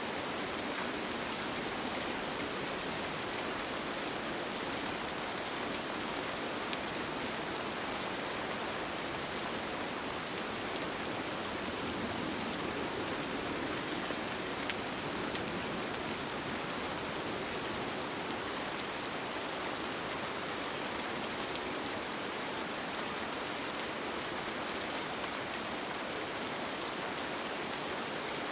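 Steady rain falling, an even hiss with now and then a single drop ticking out.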